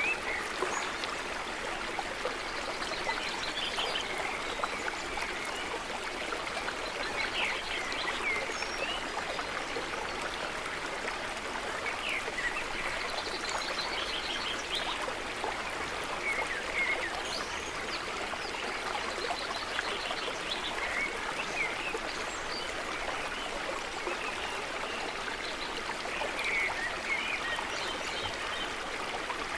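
A small stream running steadily over stones, with small birds chirping and trilling on and off throughout.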